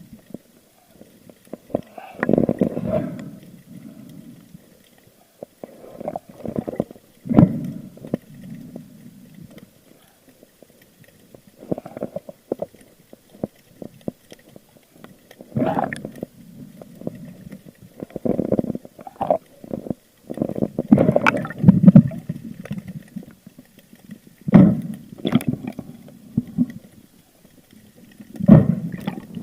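Muffled water sounds picked up by an underwater camera: irregular bursts of gurgling and sloshing every few seconds, with a few sharp knocks among them.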